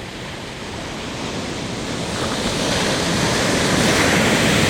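Ocean surf: a wave breaking and washing up the beach, growing louder from about halfway through and peaking near the end.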